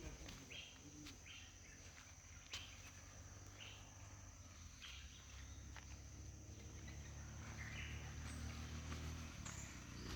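Faint natural ambience: a steady high insect drone with short bird calls repeated every half second or so in the first half. A low rumble comes in about halfway and stops near the end.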